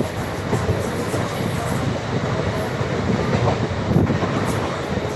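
Indian Railways train running along the track: a steady rumble and rattle of wheels on the rails.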